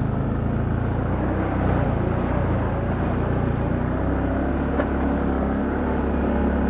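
Can-Am Outlander ATV engine running steadily as the quad rides along a trail, its note shifting slightly about four seconds in.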